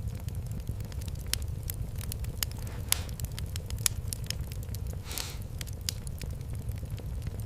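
Wood fire in a fireplace crackling, with many sharp irregular pops over a steady low rumble and a short hiss about five seconds in.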